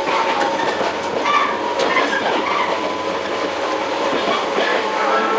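Running sound inside a JR 115 series electric multiple unit's motor car (MoHa 114) under way: steady rumble with the whine of the traction motors and gears, and irregular clicks of the wheels over rail joints.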